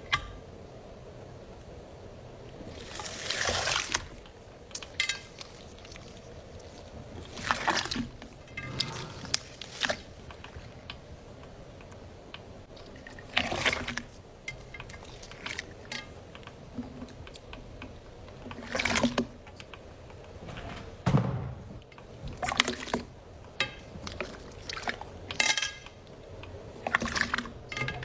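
Slime being squeezed and pressed by hand, giving wet squishes and crackling pops in short bursts every few seconds, with a quicker run of small clicks late on.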